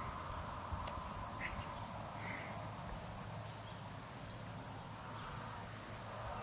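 Quiet outdoor background with a steady low rumble, a few faint short bird calls about one and two seconds in, and a quick run of high chirps a little after three seconds.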